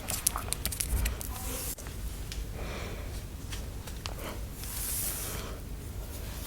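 Soft, scattered light taps and brushing sounds close to an ASMR microphone, with a faint breathy hiss about five seconds in.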